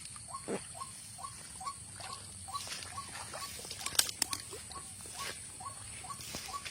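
Repeated short calls of a white-breasted waterhen, an even string of about two notes a second, over a steady high hiss, with a few sharp snaps about four seconds in.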